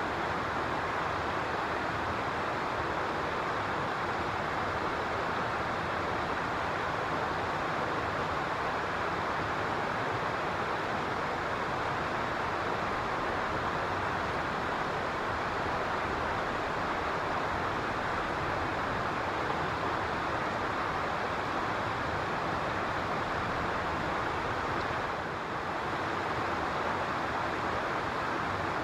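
Steady, even rushing noise with no distinct calls or knocks, briefly dipping a little in level about 25 seconds in.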